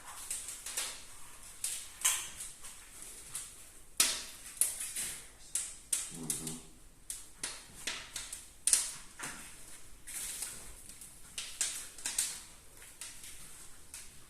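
Irregular sharp clicks and knocks, several a second at times, with one short low pitched sound about six seconds in.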